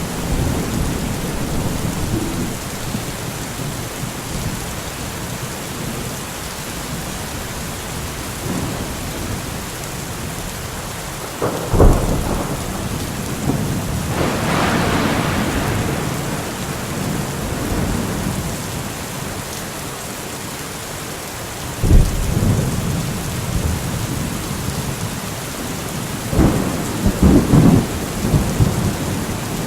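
Steady rain falling, with thunder: a sharp crack about twelve seconds in, rolling rumble soon after, another crack about twenty-two seconds in, and a crackling burst of thunder near the end.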